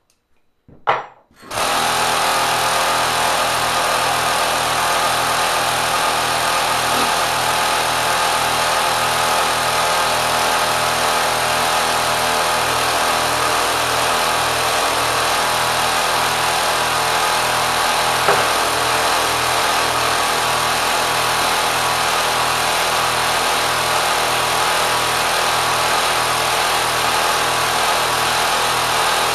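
A 3/4 hp electric motor fitted to a Kenmore sewing machine starts up with a click about a second and a half in, then runs steadily at high speed with a loud whir and a slow regular throb underneath.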